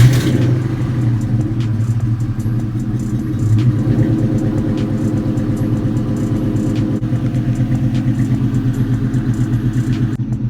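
Built 4.6-litre four-valve V8 of a 2002 Mustang GT idling just after a cold start, with a short rev about three and a half seconds in, then settling into a steady idle with a regular pulsing beat.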